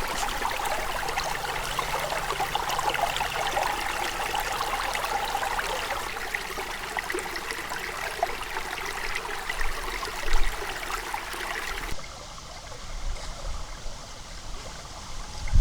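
River water running and babbling over stones, a steady crackling rush. About twelve seconds in it abruptly turns quieter and duller, with a few low bumps.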